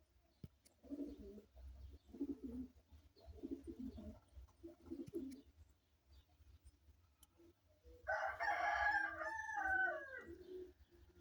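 Domestic pigeons cooing in low, repeated phrases, four in the first half, then a louder, higher call lasting about two seconds that falls in pitch, starting about eight seconds in.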